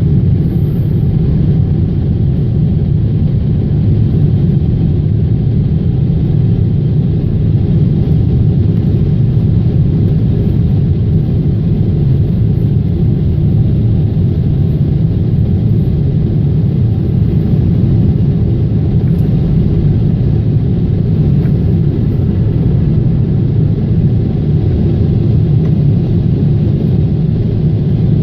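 Boeing 777 jet engines and airflow in flight after takeoff, a loud steady low rumble that does not change.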